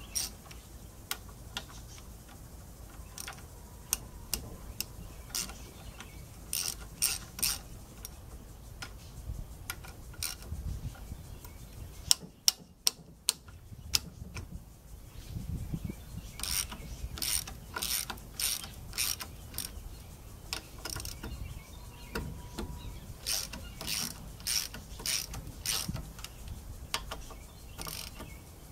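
Ratchet wrench clicking in short runs as the 9/16 bolts around an airboat belt box housing are broken loose, with a few sharper clicks about halfway through.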